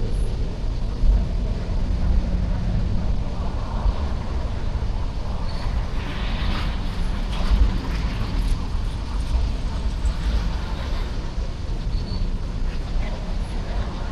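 Freight train rolling by: a steady low rumble of wheels and cars on the rails, with a few brief faint high squeaks.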